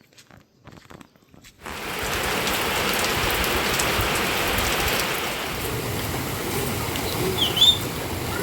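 Heavy rain falling, a steady hiss that starts abruptly about one and a half seconds in, after a few faint clicks. A brief high chirp sounds near the end.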